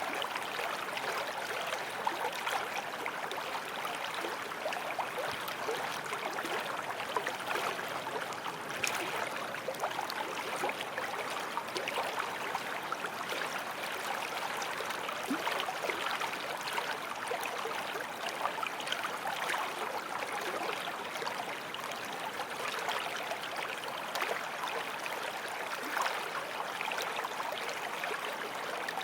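A forest stream flowing over rocks: a steady rush of water with small splashes and gurgles.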